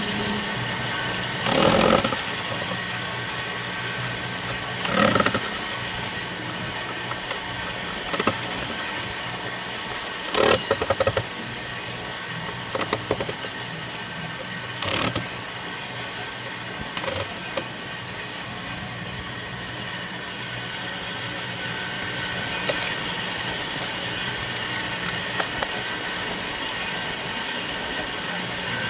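A steady hum with scattered short knocks and clatters, as of tools and parts being handled during a soundbar teardown.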